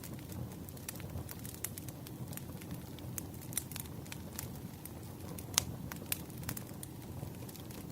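Wood fire crackling: irregular sharp pops and snaps over a steady low rumble of the burning logs, with one louder pop a little past halfway.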